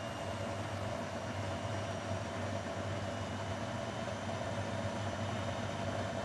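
Grundig washing machine running with a steady hum and whir that holds the same pitch throughout.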